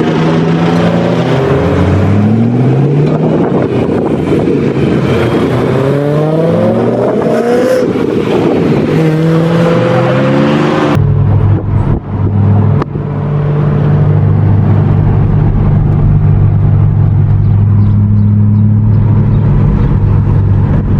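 BMW car engines accelerating hard, the pitch climbing and dropping several times as they rev up through the gears. Then comes a sudden change to a steady, even engine drone at constant cruising speed.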